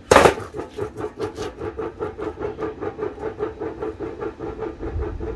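A removed Summit Racing steel turbo muffler is set down on the ground with a loud clank, then rattles in a rapid, even run of about nine knocks a second. The rattle comes from its internals, which have come apart inside. The rattle stops suddenly near the end.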